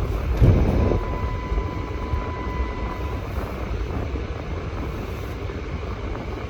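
Steady low road and engine rumble inside a moving car's cabin, with a brief louder rush about half a second in. A thin steady high tone sounds for about two seconds near the start.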